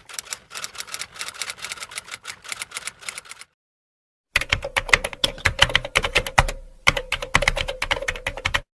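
Rapid typing on keys, a dense run of clicks for about three and a half seconds, a second of silence, then a second run of typing over a steady hum.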